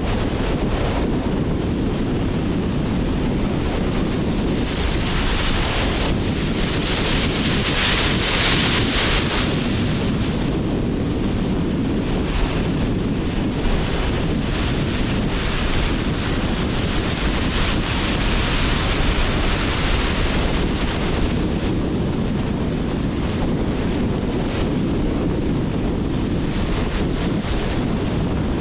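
Sea surf and strong wind. A continuous low rumble of waves and gusting wind, with a hissing wash that swells about a quarter of the way in and again past the middle, as waves break and run up the shore.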